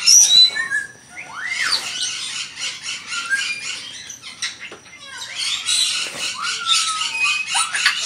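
Birds chirping and calling in many short, overlapping calls, with a few rising whistled notes.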